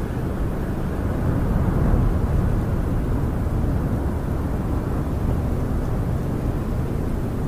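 Snowstorm wind blowing around a camper, heard from inside as a steady low rushing noise that swells for a second or so about a second in.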